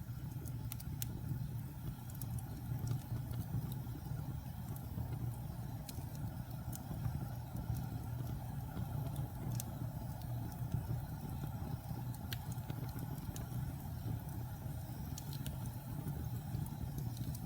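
Wood fire burning in a fireplace: a steady low rumble of flames with scattered sharp crackles and pops from damp and pine logs as they heat.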